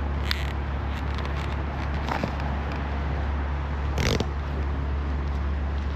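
Honda CB125F single-cylinder four-stroke engine running steadily at low revs, with a few short rustles or clicks, the loudest about four seconds in.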